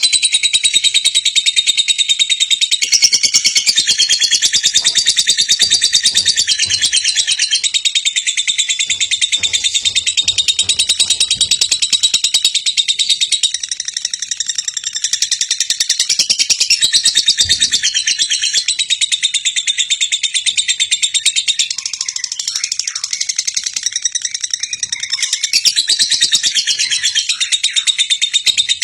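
Lovebird singing a long, unbroken ngekek: a high, rapid chattering trill of fast repeated notes with no pause.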